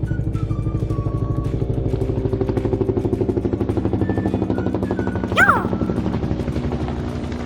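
Helicopter running, a steady whirr with a rapid, even rotor pulse. About five and a half seconds in, a short, high squeak rises and falls over it.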